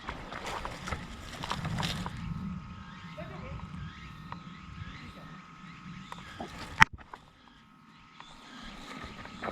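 Footsteps rustling through forest brush and leaf litter, with a steady thin chirring in the background. A single sharp click is the loudest sound, near the end.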